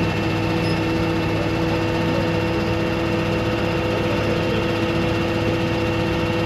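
Vehicle engine running at a steady speed with an even, unchanging hum.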